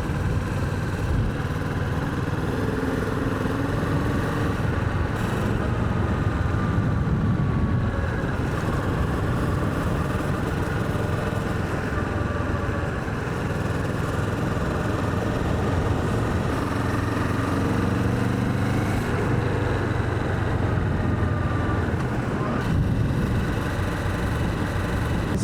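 Kawasaki Vulcan 650's parallel-twin engine running steadily as the motorcycle cruises at low speed, its pitch rising and falling gently with throttle.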